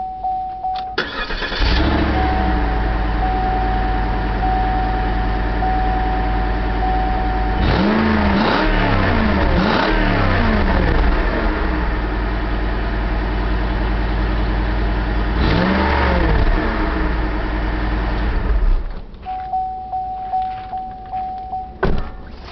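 2008 Cadillac DTS's Northstar V8 cranked and catching about a second in, then idling loudly with a short burst of two or three revs in the middle and another single rev later. Near the end the engine sound drops away. The car's steady electronic warning beep sounds at the start and again at the end.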